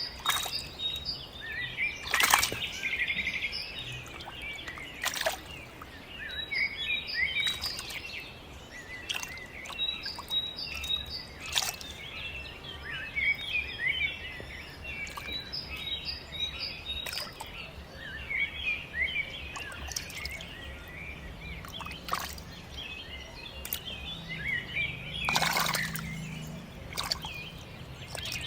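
Busy birdsong: many birds chirping in short calls throughout, broken by a handful of brief, sharp noises.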